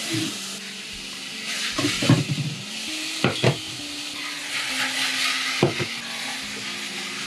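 Vegetables and ground spices sizzling as they fry in a pot. Several sharp knocks of pots and utensils being handled come over the sizzle.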